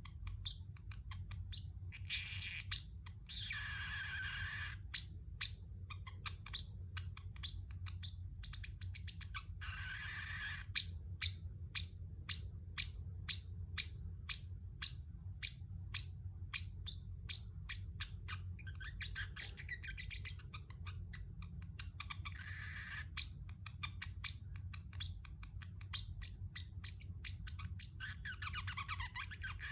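Pacific parrotlet chirping: many short, sharp chirps, coming fast in a long run in the middle, with a few longer, noisier calls among them, over a steady low hum.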